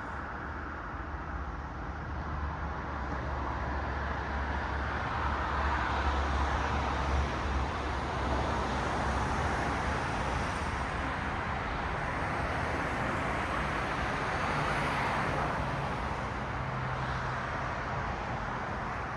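Cars passing on a city road, their tyre and engine noise swelling and fading as they go by, with a steady low hum underneath.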